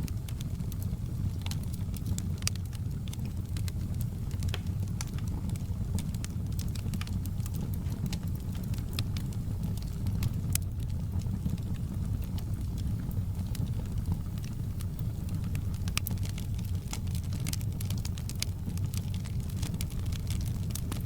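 Wood fire burning in a fireplace: a steady low rumble of the flames with frequent sharp crackles and pops of the burning logs.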